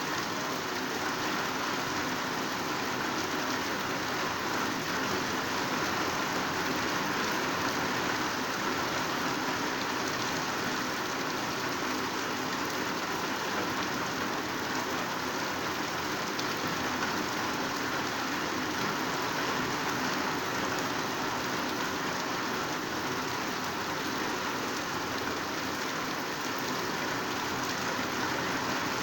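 Heavy downpour falling on dense green vegetation: a steady, even rush of rain.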